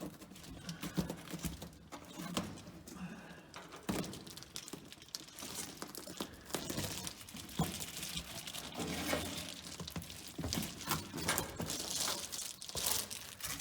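Sheet of car insulation rustling and crinkling as it is worked by hand into place under the roof, with scattered light knocks and taps against the body panel.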